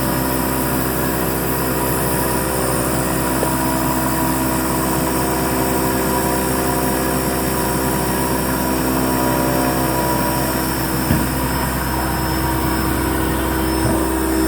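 Hurco MB-1 CNC milling machine running while milling letters: a steady mechanical hum with several held tones. A single brief click comes about eleven seconds in.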